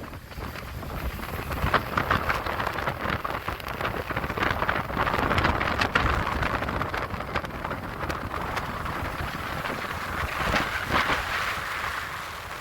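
Wind buffeting the microphone, a steady rush with dense crackling and a low rumble.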